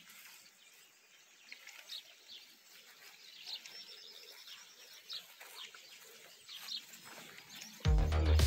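Faint birdsong: many short, high chirps scattered throughout. Music starts near the end.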